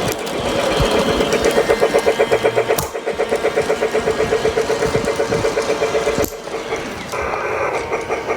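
Lionel Polar Express battery-powered toy train's onboard sound effects playing through its small speaker: a rapid, even pulsing of about six beats a second. It breaks off briefly about six seconds in and then starts again.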